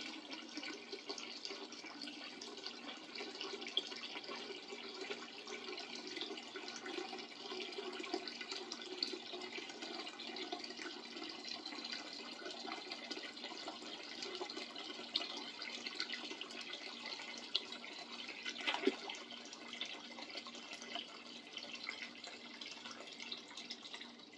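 Vinegar pouring steadily from a jug into a bucket of tools, a continuous liquid rush that eases off and stops near the end. The bucket is being filled to cover the tools for a rust-removing soak.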